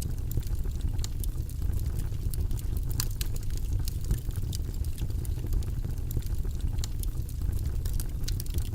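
Wood fire burning in a fireplace: a steady low rumble of flames with frequent sharp crackles and pops scattered irregularly throughout, a cluster of louder pops about three seconds in.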